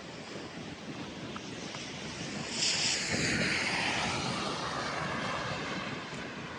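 City street noise in the snow, with a loud hissing rush that starts suddenly about two and a half seconds in and fades away over a couple of seconds.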